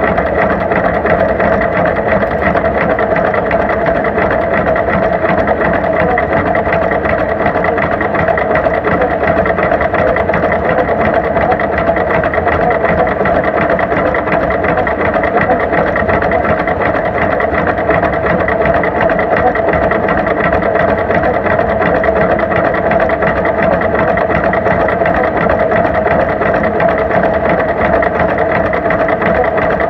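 Tractor engine running steadily at an even speed, loud and unchanging throughout.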